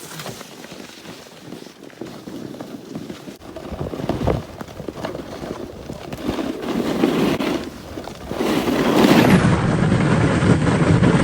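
Wind rushing over the microphone, swelling much louder about eight seconds in.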